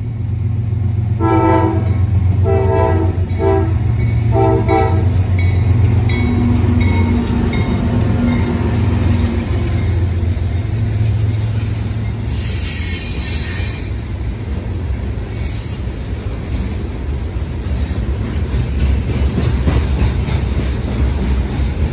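CSX GE ES40DC diesel locomotive sounding its horn in four blasts, the third short, then its engine rumbling past. The freight cars follow, rolling and clattering on the rails with a brief high wheel screech near the middle.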